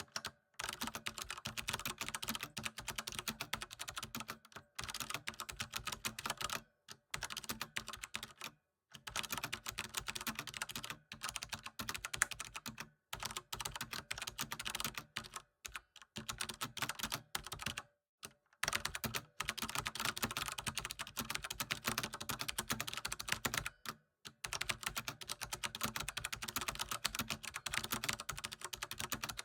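Rapid, steady typing on a computer keyboard: a dense stream of key clicks in runs of a few seconds, broken by brief pauses.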